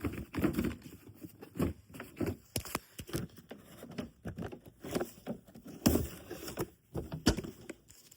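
Packaged fireworks being handled: cardboard and plastic wrapping rustling, with a few sharp knocks as items are picked up and set down.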